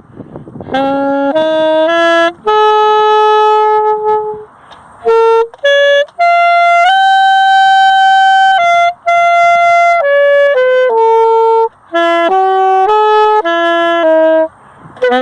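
A solo saxophone playing a free improvisation: a string of single held notes and short runs with brief breaks between phrases, the longest note held almost two seconds around the middle.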